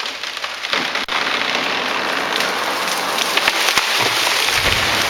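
A tall balsam fir falling: branches cracking, snapping and crashing through the surrounding trees in a long, dense crackle, with a deep thud about four seconds in as the trunk hits the ground.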